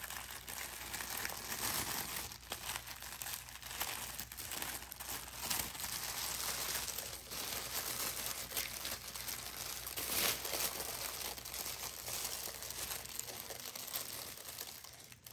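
White tissue paper crinkling and rustling continuously as hands unfold it from around a shaving brush, easing off near the end.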